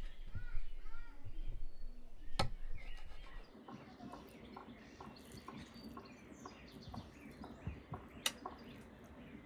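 Small birds chirping and calling, with a short run of repeated arching notes in the first two seconds. Under them, scattered light clicks and taps, and two sharp knocks, one about two and a half seconds in and one near the end.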